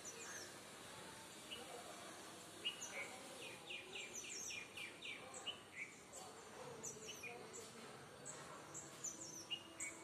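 Several small birds chirping and calling at dawn, short high notes scattered throughout, with a quick run of about seven falling notes a few seconds in, over faint background noise.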